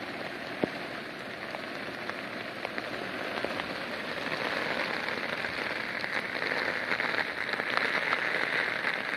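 Rain falling on a tent's fabric, a steady patter with many separate drops ticking against the material, growing slowly louder toward the end.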